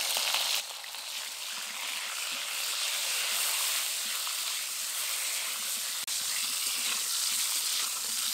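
Pointed gourds (potol) frying in hot mustard oil in a kadai, a steady sizzling hiss. The hiss drops about half a second in, then builds back up.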